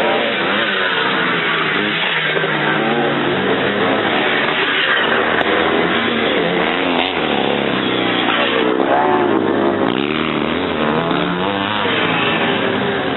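Several vintage 500cc motocross motorcycles racing past together, their engines revving up and down continuously in overlapping pitches.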